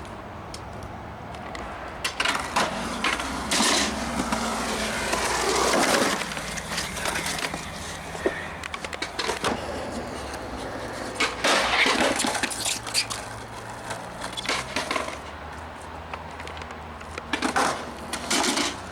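Skateboarding: a board rolling with repeated clacks and scrapes of the deck and trucks in bursts, about two, four, six, twelve and seventeen seconds in.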